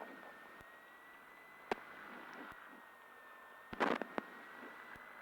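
Faint hiss with a steady thin high whine, as heard through a light aircraft's headset intercom with the engine noise largely shut out. A single sharp click comes about a second and a half in, and a short noisy burst, like breath or handling on a headset microphone, comes near four seconds.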